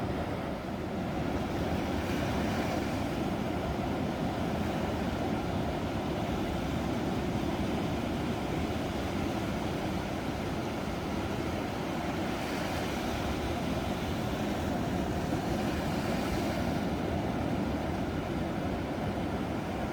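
Ocean waves breaking on a shore: a steady, deep rush of surf, with a brighter hiss of a wave washing in about two seconds in and again for several seconds past the middle.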